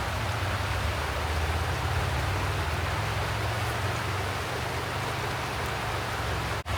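Mountain stream rushing steadily over rocks, with a low rumble under the splashing; the sound cuts out for an instant near the end.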